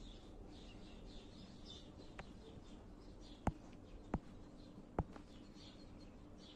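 Faint, scattered high chirps of small birds, with a few sharp clicks in the middle.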